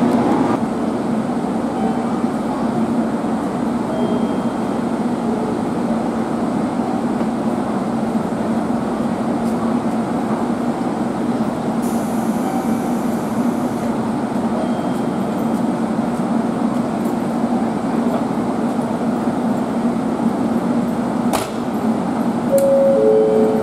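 Steady hum of a JR Kyushu 783 series electric express train standing at the platform with its doors open, its on-board equipment running. A sharp click sounds about 21 seconds in, and a short two-pitch tone near the end.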